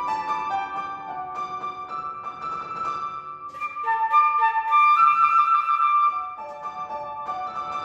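Flute playing a melody of held notes over piano accompaniment.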